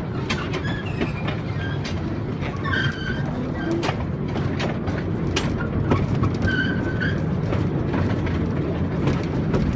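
Ride-on tourist train rolling along its track: a steady low rumble with scattered clicks and knocks and a few brief high squeaks.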